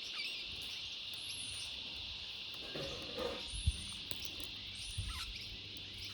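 Outdoor background with a steady high hiss, faint short high-pitched bird chirps several times, and a couple of soft low thumps.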